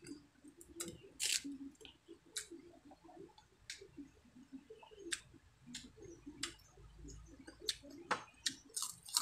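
Close-miked chewing and mouth sounds of someone eating fried dried milkfish (daing na bangus) by hand: wet smacks and many sharp clicks scattered throughout over a low, steady mumble of chewing.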